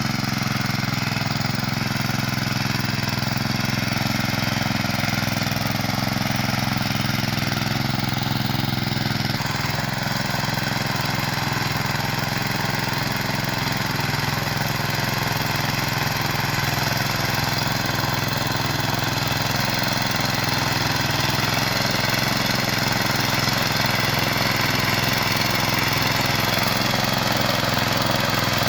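Small engine of a walk-behind motor cultivator running steadily while tilling soil, its note shifting slightly about nine seconds in.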